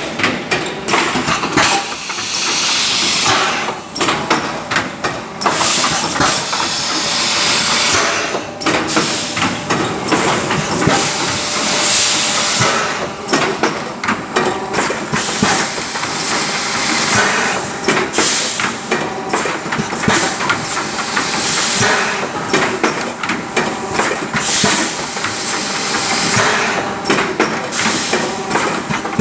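Air compressor running: a loud, steady hiss with a faint steady hum and frequent short clicks and rattles throughout.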